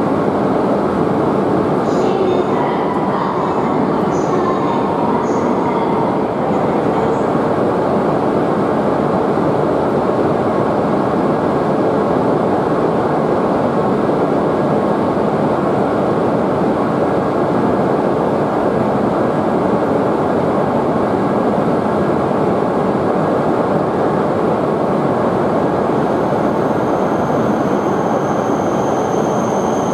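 A Hayabusa Shinkansen train running in alongside the platform: a loud, steady rushing noise. Near the end a high whine sets in as the train slows to stop.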